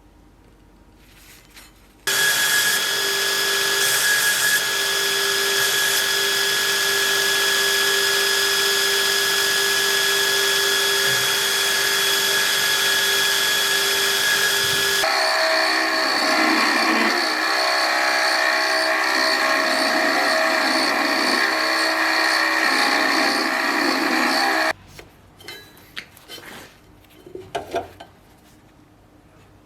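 An electric power tool running with a steady whine that starts suddenly about two seconds in. Around halfway its sound changes to a rougher, wavering tone, as if under load. It cuts off abruptly about five seconds before the end and is followed by a few light clicks and rubbing sounds.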